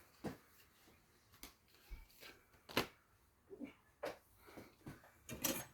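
Light, scattered clicks and knocks of small objects being handled and set down on a workbench, the loudest knock near the middle.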